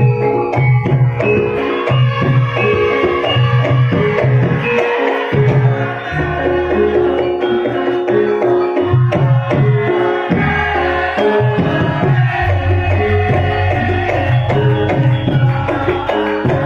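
Javanese gamelan music accompanying lengger dance: a kendang hand drum plays a busy pattern of deep and sharp strokes over held, ringing metallophone tones.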